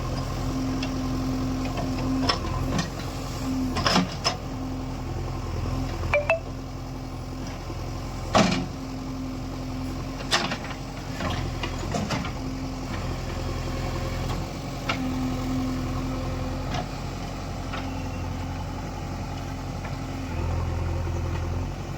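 JCB 3DX Eco Xcellence backhoe loader's diesel engine running steadily, with a series of sharp knocks every second or two. The low engine hum grows louder near the end.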